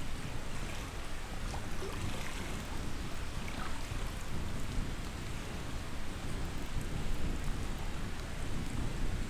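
Outdoor nature ambience: a steady rushing noise with faint scattered crackles.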